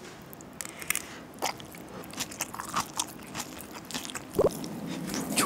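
Close-miked chewing of a bite of rice with crisp kimchi: irregular wet crunches and clicks as the kimchi is bitten through.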